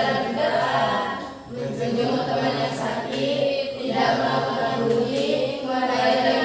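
A group of voices singing a song together, unaccompanied.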